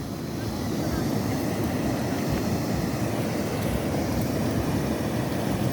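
Steady rushing of water from a waterfall, an even noise heavy in the low end.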